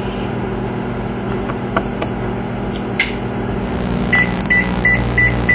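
Microwave oven humming steadily, with a sharp click about three seconds in, then a quick run of short high keypad beeps, about three a second, as a cooking time is punched in.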